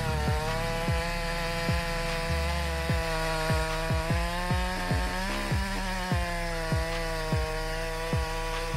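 Two-stroke chainsaw running at high revs as it cuts wood, its pitch wavering slightly under load, over background music with a steady thudding beat.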